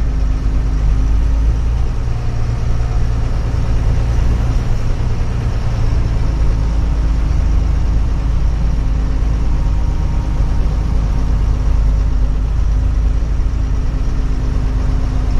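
Truck engine running steadily as the truck drives, a low, even rumble with a steady hum.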